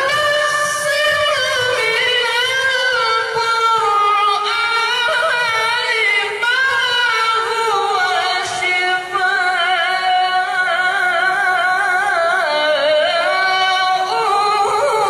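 Qur'an recitation (tilawah) by a solo reciter: one long, high, unaccompanied melodic phrase, richly ornamented with wavering turns. The voice sinks lower in the second half and climbs again near the end.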